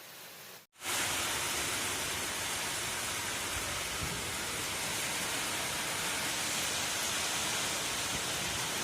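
Heavy monsoon rain pouring down in a steady, even hiss. It cuts out briefly and comes back louder just under a second in.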